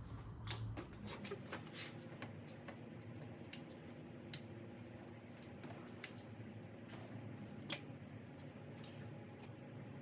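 Scattered sharp metallic clicks and taps of a screwdriver and tools on the 2.0T engine as its fuel injectors are pried out of the head, at irregular intervals, the loudest click about three-quarters of the way through, over a faint steady hum.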